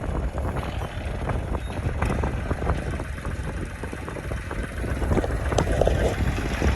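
Massey Ferguson tractor engine running steadily, a low rumble with rattles and ticks over it.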